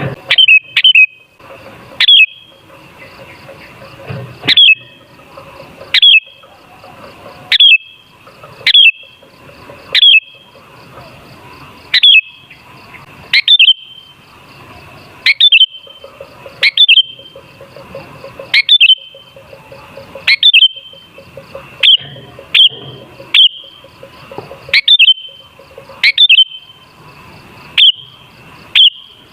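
Sooty-headed bulbul (kutilang) giving short, sharp calls, each a quick downward note, repeated about every second or so. A faint steady insect-like buzz runs underneath.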